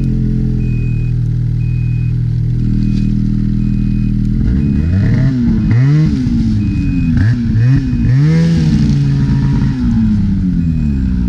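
Snowmobile engine idling steadily, then revved up and down several times in quick succession before settling back, on a fresh variator belt.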